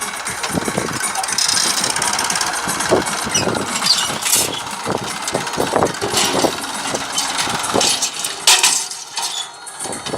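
New Holland tractor's diesel engine running with a rough, uneven sound, and two sharp clatters, about four seconds in and again near the end.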